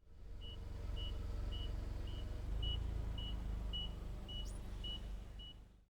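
A vehicle's reversing alarm beeping steadily about twice a second over a low engine rumble.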